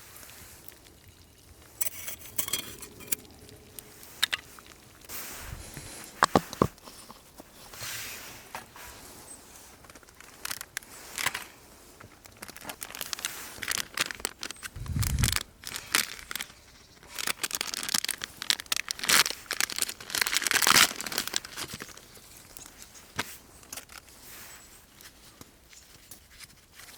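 Crinkling and rustling of handled material in irregular bursts, with scattered sharp clicks and a low thud about halfway through.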